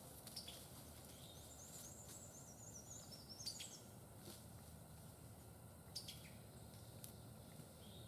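Faint songbird calls over quiet outdoor background: a quick series of high, thin notes about one and a half seconds in, then a few short chirps.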